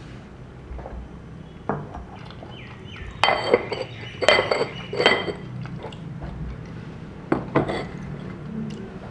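Dishes and utensils clinking and knocking against each other: a quick cluster of sharp strikes that ring briefly in the middle, then two more strikes near the end.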